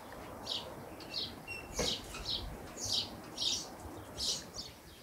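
Small birds chirping: a run of short, high notes, about two a second, with a single sharp click about two seconds in.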